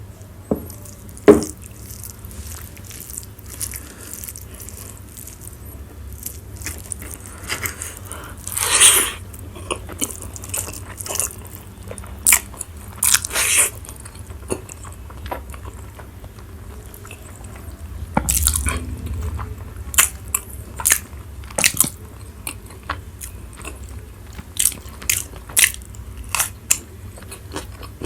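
A person eating close to the microphone: separate bites, crunches and chewing sounds coming in irregular bursts, with a sharp knock about a second in. A steady low hum runs underneath.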